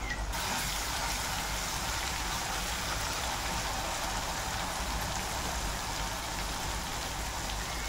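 Onion, turmeric and green chilli–garlic paste frying in hot oil in a kadai: a steady, even sizzle.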